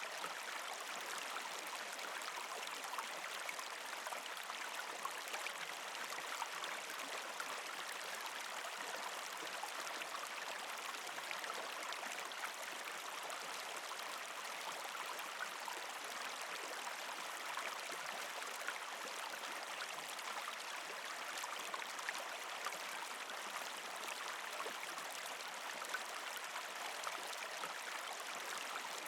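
Partially frozen creek flowing over rocks: a steady rush of water with many small gurgles and trickling drips.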